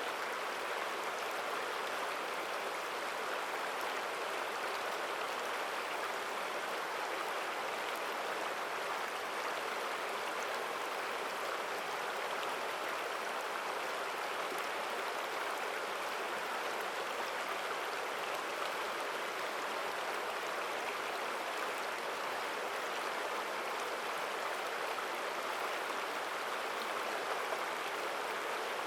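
Mountain stream flowing strongly over rocks, a steady rushing and splashing of water with no breaks.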